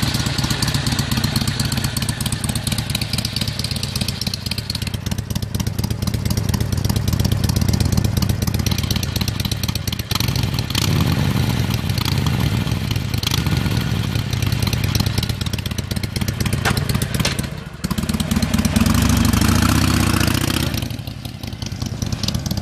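Harley-Davidson Sportster Iron V-twin running through stock US baloney-cut mufflers, idling and revved several times, with the strongest rev near the end.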